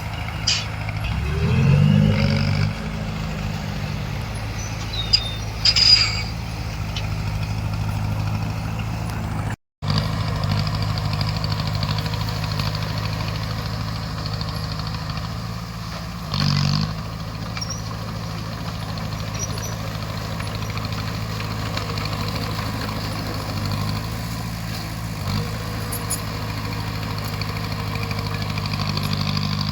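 Bulldozer's diesel engine running steadily under work, its pitch rising briefly about two seconds in, with a few short metallic clanks. The sound drops out for a split second about a third of the way through.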